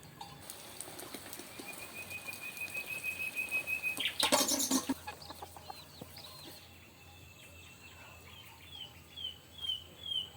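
Forest songbirds: a steady high trill for a couple of seconds, then a short loud noisy burst about four seconds in, and near the end a bird repeating short down-slurred whistled notes about twice a second.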